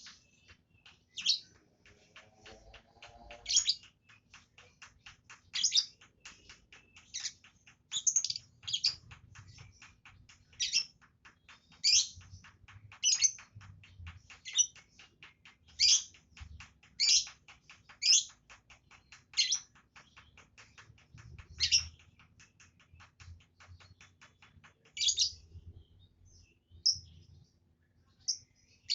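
Pet lovebird calling: sharp, high chirps about once a second over a fast run of faint ticking chatter.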